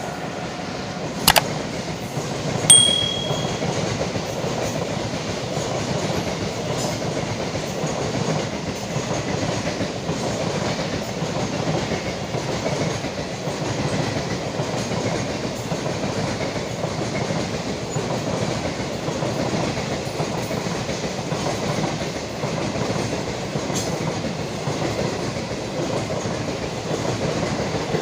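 Parcel train behind an electric locomotive running by, with a steady rolling rumble of wheels on the track. A sharp click sounds about a second in, and a brief high-pitched tone just before 3 seconds is the loudest moment.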